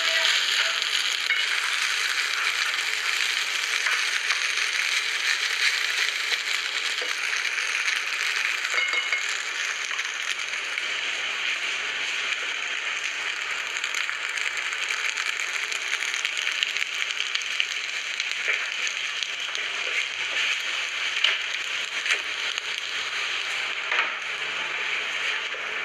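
Steady rain, an even hiss dense with fine crackling drops.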